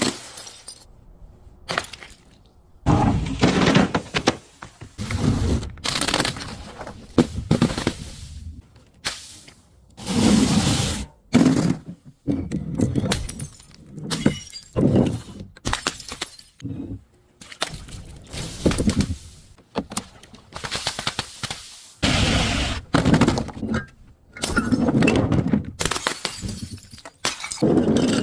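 A long series of crunching and breaking sounds as objects are crushed one after another. Each crush is a noisy burst of about a second, with short pauses between them.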